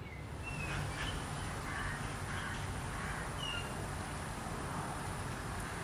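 Birds calling and chirping, short scattered calls over a steady low background hum.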